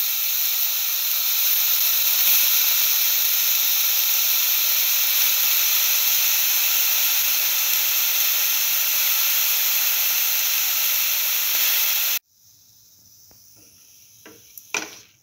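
Bottle gourd pieces frying with shallots, garlic and chillies in hot oil in a metal pan: a loud, steady sizzle that cuts off suddenly about twelve seconds in. Near the end, a few short scrapes of a spatula stirring the pan.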